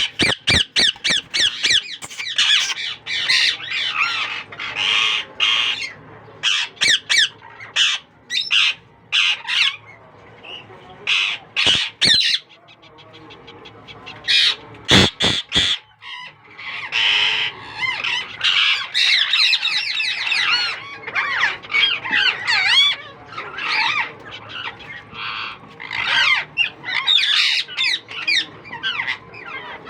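Ringneck parakeets calling: bursts of sharp squawks and wavering, warbling chatter, with short pauses between the bursts.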